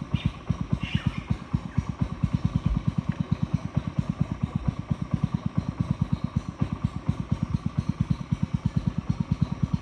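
A boat's small engine putt-putting steadily, with an even beat of about eight or nine pulses a second.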